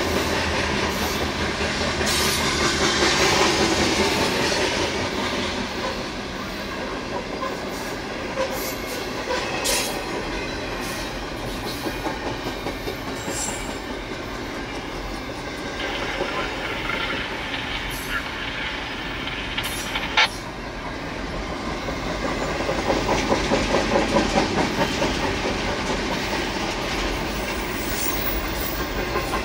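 Freight train cars rolling past, their wheels clicking over rail joints in a rhythmic clickety-clack, with one sharp click about twenty seconds in.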